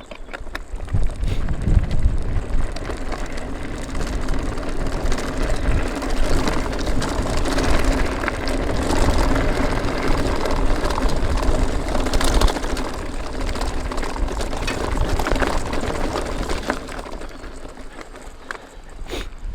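Strong wind buffeting the action camera's microphone while a mountain bike is ridden, with a dense rushing roar of wind and tyre noise and a faint steady hum underneath. It swells about a second in and eases off near the end.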